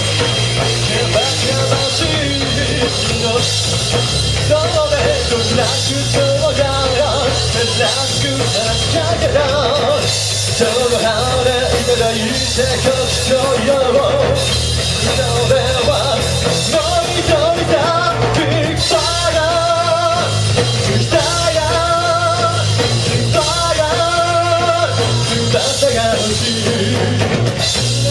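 A rock band playing live, a singer holding wavering sung lines over a steady bass and drums.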